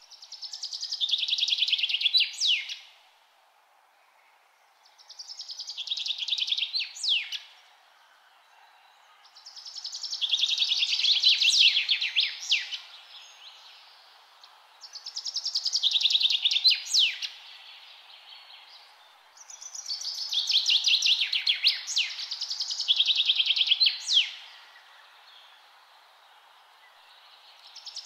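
A songbird sings the same song over and over, roughly every five seconds. Each song is a fast trill that slides down in pitch and ends in a sharp rising note, over a faint steady hiss.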